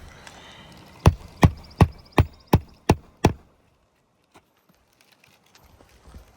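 Hammer driving a roofing nail into an asphalt shingle: seven sharp blows in quick succession, close to three a second, fastening the replacement shingle.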